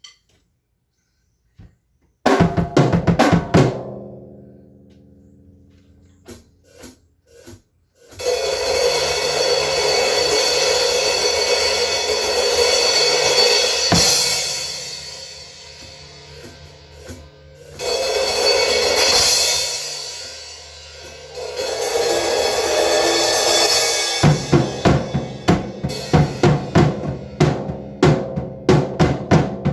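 Drum kit played freely. A quick run of drum hits comes about two seconds in, then a long cymbal wash that swells and fades. Near the end there are rapid, steady drum strokes.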